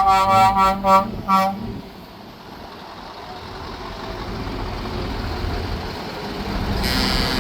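Truck air horn sounding a quick run of short toots, about five a second, that stops about a second and a half in. A steady vehicle rumble follows and slowly grows louder.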